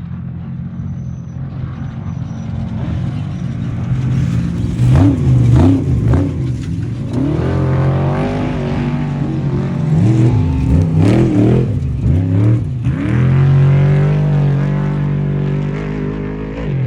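Off-road race vehicle's engine revving hard, its pitch sweeping up and dropping sharply several times over a steady low engine drone, then settling back to the steady drone near the end.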